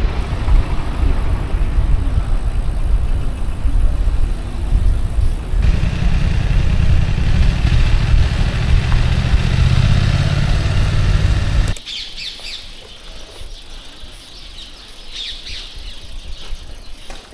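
Wind buffeting the microphone on a moving bicycle, a loud low rumble that cuts off suddenly about twelve seconds in. After it, much quieter air with small birds chirping.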